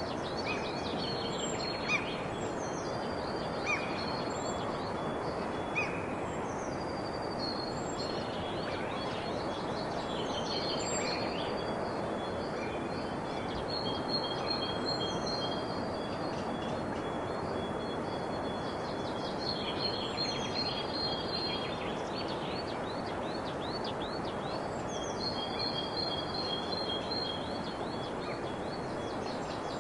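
Several birds calling over a steady background hiss: a few short chirps in the first six seconds, then rapid high trills that come and go.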